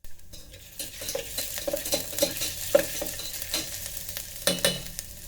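Chopped ginger and garlic sizzling in a little hot oil inside an electric kettle while they are stirred, with the utensil knocking and scraping against the pot, the loudest strokes about four and a half seconds in.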